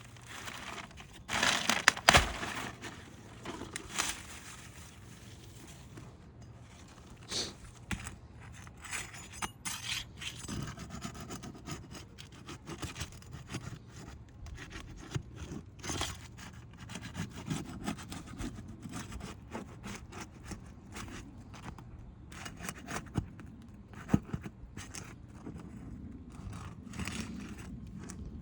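Intermittent scraping, rustling and knocking as a tarp is pulled off and brittle asphalt shingles are worked loose by hand and tool, with a louder cluster of scrapes about two seconds in.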